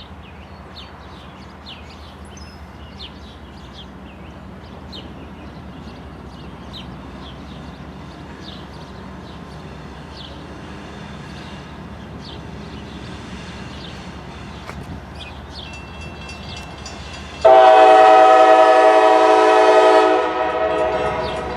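Norfolk Southern diesel freight train approaching with a low rumble that slowly grows. About three-quarters of the way through, the locomotive horn sounds one long, loud multi-tone blast that breaks off after a couple of seconds and trails away.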